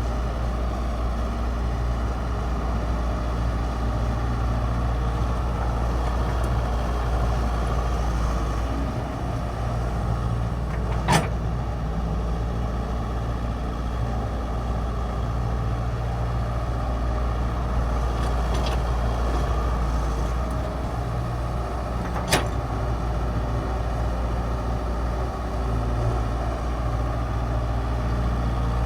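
Diesel engine of a Hitachi 60.1 mini excavator running steadily under working load, its note swelling and easing every few seconds. Two sharp metallic clanks stand out, about eleven seconds apart.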